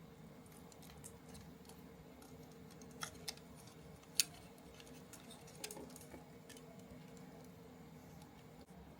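Small parts and hand tools being handled during model-kit assembly: scattered light clicks and taps, with a few sharper clicks about three and four seconds in, over a faint steady hum.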